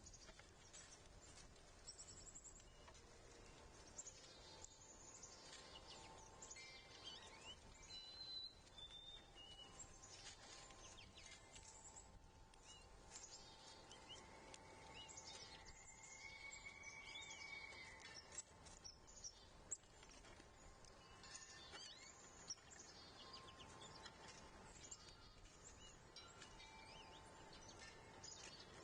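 Faint birdsong at a backyard feeder: several small birds chirping and calling over and over, with one longer warbling call around the middle. A few light clicks or taps come in near the end.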